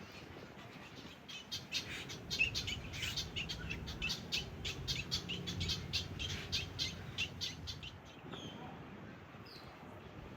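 Birds chirping: a rapid series of short, high calls, about four a second, lasting about six seconds, then a few faint single chirps.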